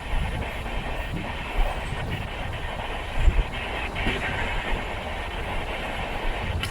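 Indian Railways sleeper-class coach running along the track at speed, heard from on board: a steady rumble with irregular clicks and thumps as the wheels pass over rail joints, the loudest thump a little past three seconds in.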